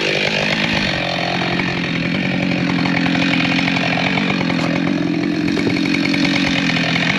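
Two-stroke chainsaw engine running at a steady, lower speed.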